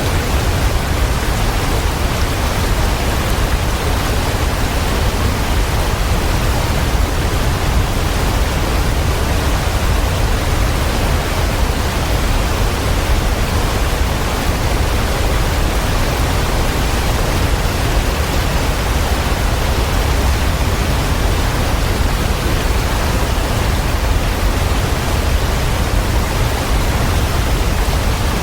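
Waterfall: falling water making a steady, unbroken rush, heaviest in the low rumble, with no changes or separate splashes.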